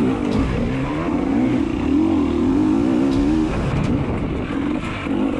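Dirt bike engine revving up and down as the rider works the throttle over rough ground, the pitch rising and falling several times in the first few seconds.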